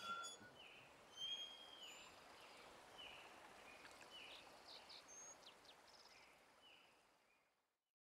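Faint outdoor ambience with a bird calling over and over in short chirps that drop in pitch, about one or two a second. It all fades out to silence near the end.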